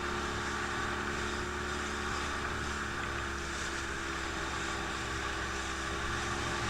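Motorboat engine running at a steady speed, an even drone with a constant pitch.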